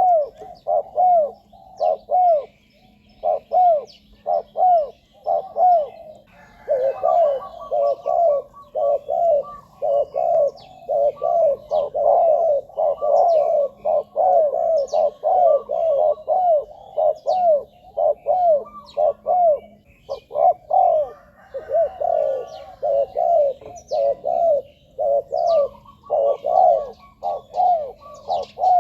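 Spotted doves cooing in a steady run of short, rounded coo notes, with a second, higher-pitched voice joining about a quarter of the way in. Faint chirps of small birds sound in the background.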